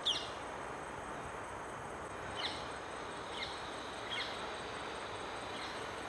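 Short, sharp bird calls that slide downward in pitch, five in all: the loudest right at the start, then three more about halfway through and a faint one near the end, over a steady background hiss.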